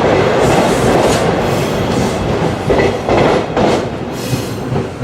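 Commuter train passing close by, loud steady wheel-and-rail noise with the wheels clacking over rail joints several times.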